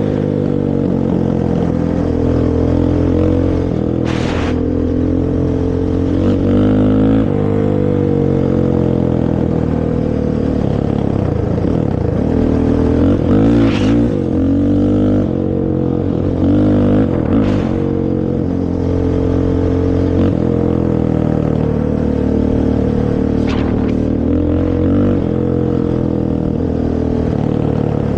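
Honda TRX450R ATV's single-cylinder four-stroke engine on its stock exhaust, revving up and down repeatedly as it is ridden. A few short sharp clacks are heard over the engine.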